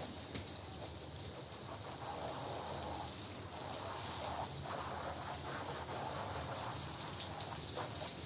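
Carpet being washed: wet scrubbing and swishing that comes and goes over a steady high hiss.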